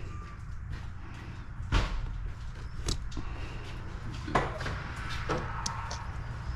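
Parts being handled and set down during a pressure washer pump teardown: four or five separate knocks and clacks, the loudest about two seconds in, with small ticks between, over a steady low hum.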